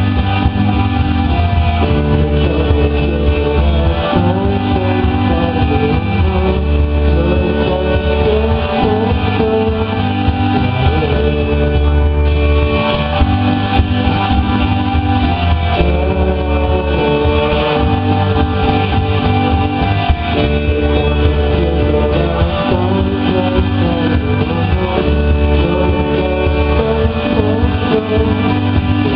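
A rock band playing live: electric guitar over bass, drums and synthesizer, in a continuous instrumental stretch with steady held chords.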